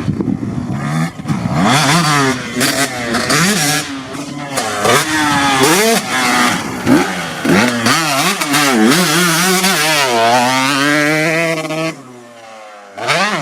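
KTM SX 125 two-stroke motocross bike's engine revving hard, its pitch repeatedly climbing and dropping with throttle and gear changes. About twelve seconds in it drops away to a low idle-like note, then picks up again just before the end.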